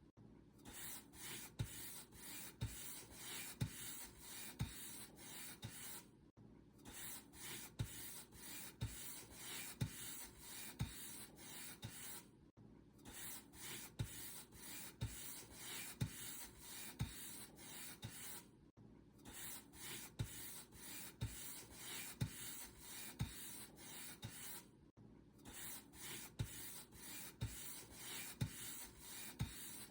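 Paint brush bristles stroking over a surface in quick, even swishes, about two strokes a second, each with a soft low thump. A short break comes about every six seconds.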